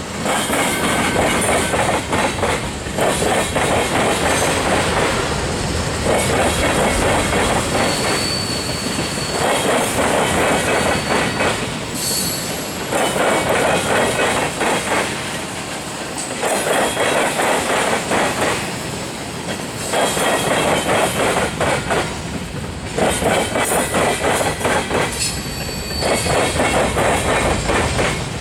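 Freight train cars rolling past, their wheels clattering over the diamond crossing and rail joints in a regular swell about every two seconds as car after car goes by. Brief thin wheel squeals come now and then.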